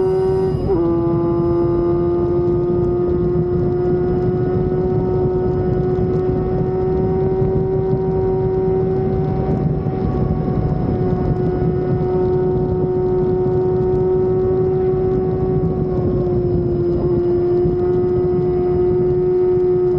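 An inline-four sport motorcycle engine holds high, nearly constant revs, a steady high whine over rushing wind and road noise. The pitch drops briefly about a second in and again near the end.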